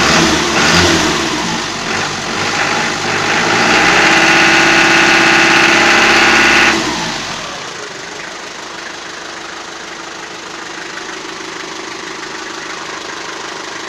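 Toyota 4B four-cylinder diesel engine revved up, held at high revs for about three seconds, then dropping back to a steady idle. Knocking like early injection timing comes in as the revs come up and then goes away; it has resisted adjustment since an injection-pump repair with a new plunger pair and nozzles.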